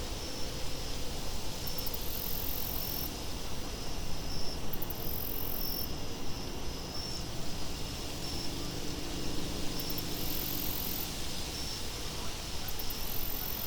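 Crickets chirping in a steady, even rhythm, with a higher insect buzz that comes in four bursts of about a second and a half each, over a low steady wind rumble.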